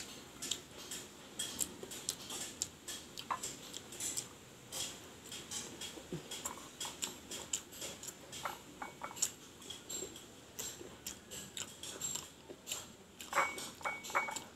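Close-miked eating: irregular chewing and mouth clicks as fried dried fish (tuyo) is eaten, with a few light clinks of a utensil on a plate, one ringing briefly near the end.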